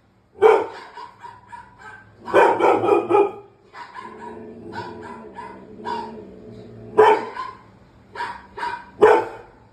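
Dog barking repeatedly: a bark about half a second in, a quick string of barks around the third second, then quieter single yaps, and louder barks again near the end.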